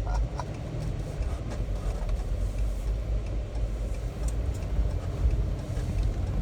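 Ram dually pickup carrying a truck camper, heard from inside the cab while driving: a steady low road and engine rumble with scattered light rattles.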